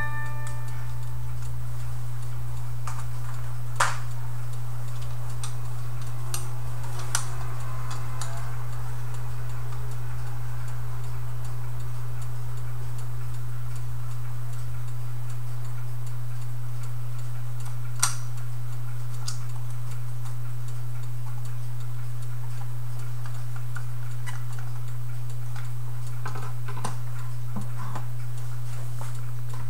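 Clock ticking over a loud, steady low hum, with a few scattered sharper clicks.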